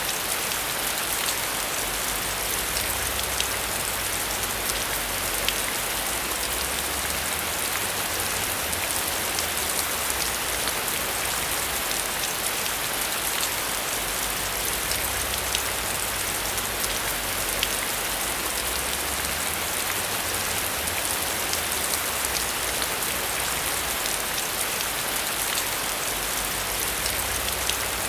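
Heavy rain falling steadily: a dense hiss with individual drops ticking through it, and a faint low rumble that comes and goes.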